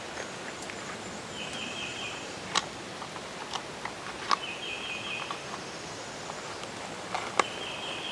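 A small bird's short buzzy trill, repeated three times about every three seconds, over quiet outdoor background. A few sharp clicks, the loudest sounds, fall between the calls.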